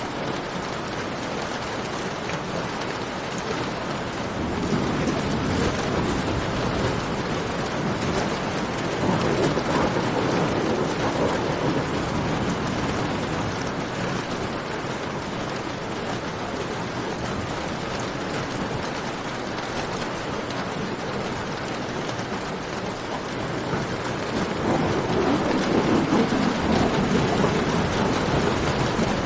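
Steady rain falling in a cave, mixed with the fine pops of a crackling campfire. Twice the sound swells louder and deeper, for several seconds about a third of the way in and again near the end.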